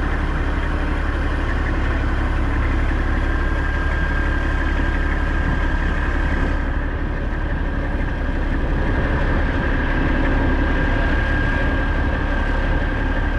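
Heavy truck's diesel engine running steadily, with a thin steady whine above it.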